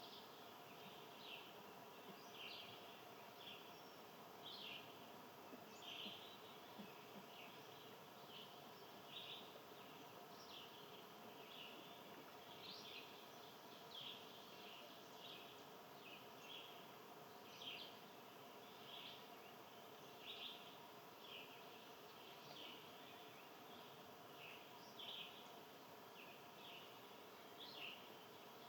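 Faint bird chirps repeating about once or twice a second, each one short and high-pitched, over a faint steady hum.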